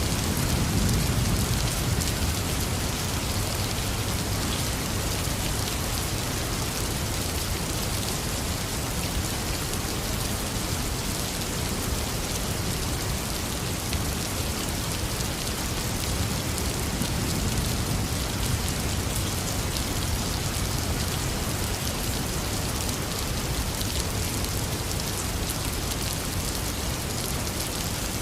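Heavy rain falling steadily in a dense, even hiss. A low rumble of thunder fades out during the first couple of seconds.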